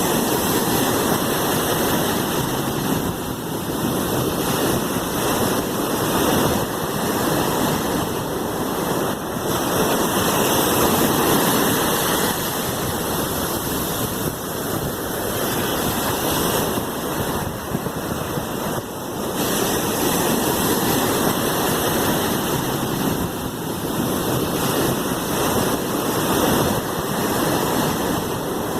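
Sea waves washing in a continuous rush of surf that swells and eases every few seconds.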